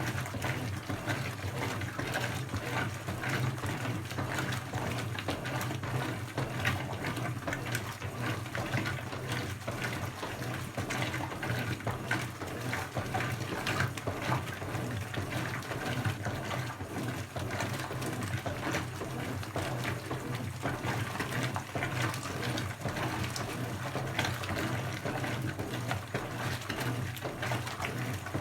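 Brastemp 17 kg BWK17 washing machine partway through its quick cycle, with water rushing steadily into the tub over a constant low hum.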